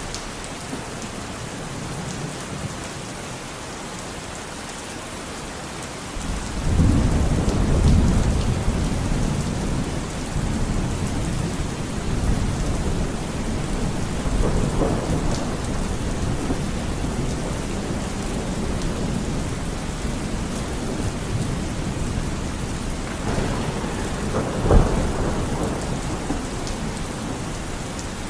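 Steady rain falling with thunder: a low rumble swells about a quarter of the way in and rolls on, and a sharper thunderclap cracks near the end.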